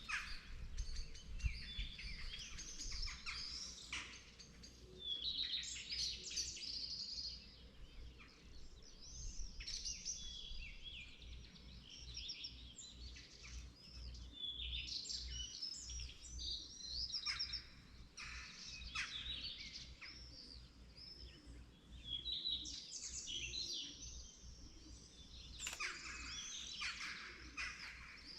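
Morning chorus of several songbirds: overlapping chirps, whistles and trills that keep going in phrases, with a low, uneven rumble underneath.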